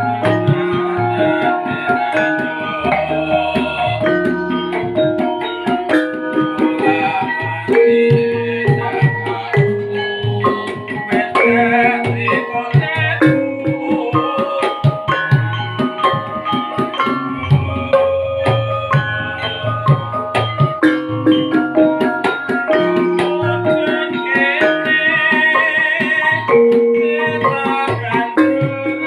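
Music from an ensemble rehearsal, played without pause: hand drums keep a busy pattern under many struck, keyed notes at fixed pitches, in the manner of a Javanese gamelan with kendang drums.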